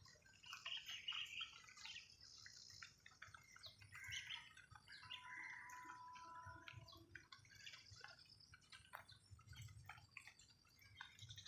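Faint chorus of several birds chirping and calling, with many short overlapping notes and a held steady note for about two seconds in the middle.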